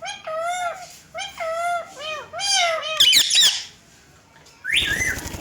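Indian ringneck parrots calling: a quick run of short warbling, whistle-like calls that bend up and down in pitch, then a loud shrill squawk about three seconds in and a harsh call near the end.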